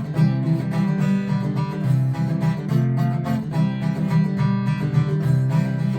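Acoustic guitar strummed in a steady rhythm, playing an instrumental break between verses of the song.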